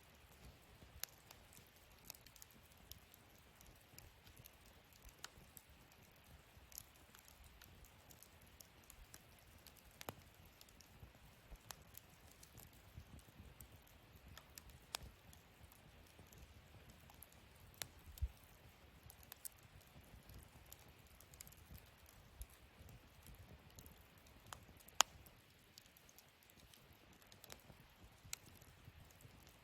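Wood fire crackling in a fire pit: faint, irregular snaps and pops over a soft low rumble, with one sharper pop about 25 seconds in.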